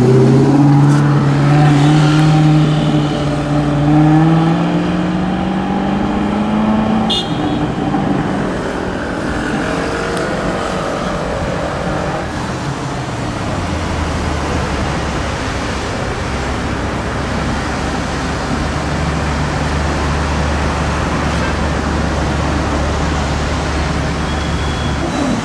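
Alfa Romeo 8C Spider's V8 engine pulling away, its note rising steadily for about seven seconds. It then fades into city traffic with a steady low engine hum.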